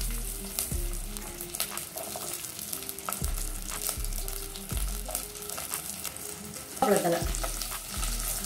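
Shallots and garlic sizzling in hot oil with mustard seeds in a clay pot, with a steady hiss and scattered crackles and pops. It gets louder about seven seconds in.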